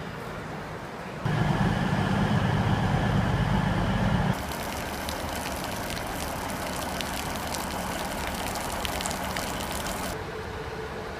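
Road traffic noise in cut-together shots that change abruptly: a loud, low vehicle rumble starting about a second in and lasting about three seconds, then a hissier passing-traffic noise with scattered clicks that stops sharply near the end.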